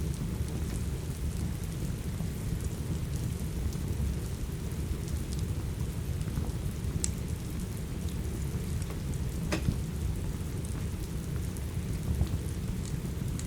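Steady rain with a low, rumbling undertone, and a few sharp pops from a crackling log fire, the loudest about two-thirds of the way through.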